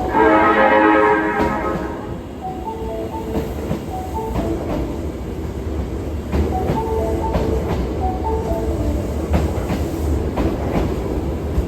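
Osaka Metro 22 series subway train pulling into the station: a short horn blast about the first second and a half, then it runs in with a low rumble and regular wheel clicks over rail joints. The platform's arrival chime melody plays over it.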